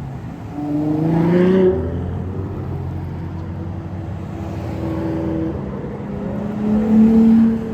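Ferrari sports car engines as the cars drive past in a slow procession. About a second in, one engine revs up, rising in pitch, then lets off suddenly. Near the end another engine surges loudly and cuts off.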